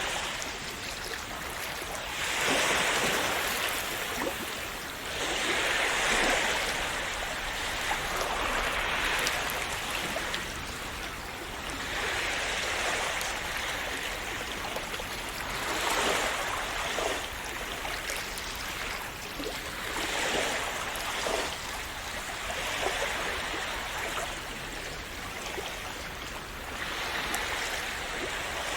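Small sea waves washing and splashing onto a shore, swelling and falling away every three to four seconds.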